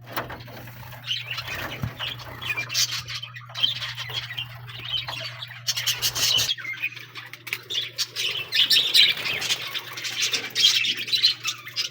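Many small aviary birds chirping and squawking at once in quick, overlapping calls, busiest in the second half. A steady low hum runs beneath them and drops away about halfway through.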